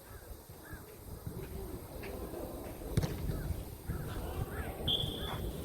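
Jokgu match court sounds: faint, distant calls from players, a single sharp knock about three seconds in, and a short high tone near the end.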